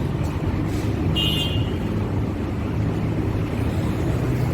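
Steady low rumble of road traffic, with a short high beep about a second in.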